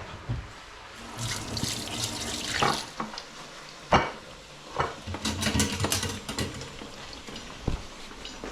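Hot oil sizzling as bhaji-battered chicken pieces deep-fry, swelling in two bursts of hiss, with a sharp knock about four seconds in.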